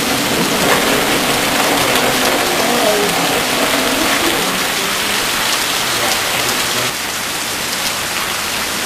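Heavy rain pouring down on a street, a steady dense hiss of rain on the road and surfaces, a little quieter from about seven seconds in.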